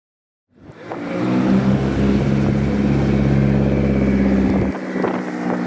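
Custom car's engine running at a steady, loud note; its deep low rumble drops away about four and a half seconds in while the higher engine note carries on.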